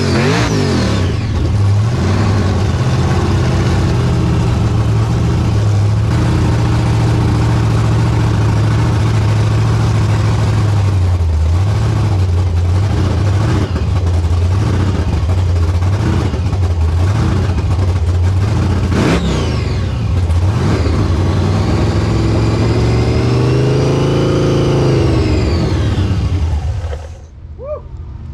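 Burnout car engine held at high revs, its pitch repeatedly rising and falling, then shut off abruptly near the end.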